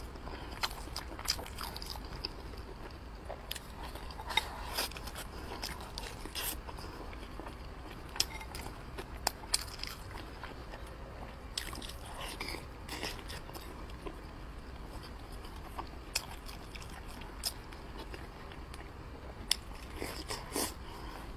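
A person chewing mouthfuls of braised tofu-skin-wrapped pork and rice close to the microphone, with irregular mouth clicks and smacks.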